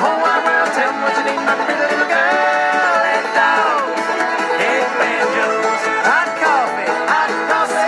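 Bluegrass-style banjo music, fast picked notes with long gliding tones sliding up and down in pitch over them.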